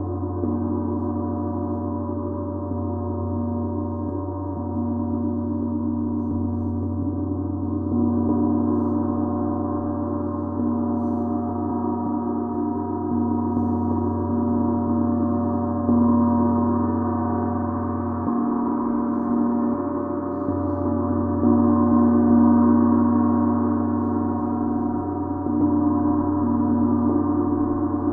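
Gong played in a sound bath: a sustained, shimmering wash of ringing overtones over a deep hum, swelling again with a fresh soft stroke about every five to eight seconds.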